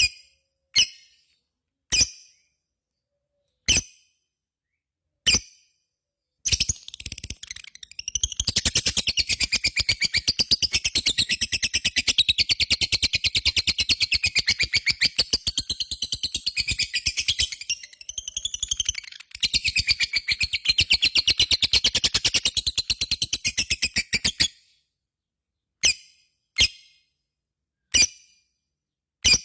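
Lovebird chattering: a few sharp single calls, then a long rapid chattering trill (the prized 'ngekek panjang') running unbroken for many seconds. Single sharp calls return near the end.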